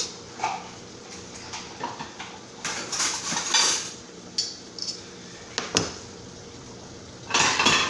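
Kitchen pans, dishes and metal utensils clattering and scraping in two short bursts, with a few single knocks between them.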